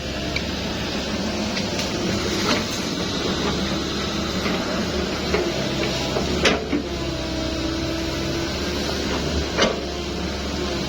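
Engine of heavy machinery running steadily, with a couple of sharp knocks, one midway and one near the end.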